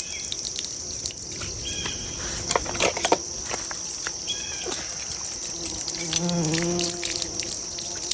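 Steady high-pitched chorus of insects chirping, with a few scattered clicks and knocks about three seconds in.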